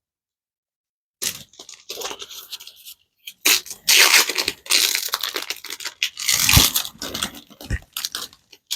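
Foil trading-card booster pack wrapper crinkling and being torn open by hand, in irregular crackling bursts that start about a second in and are loudest in the middle.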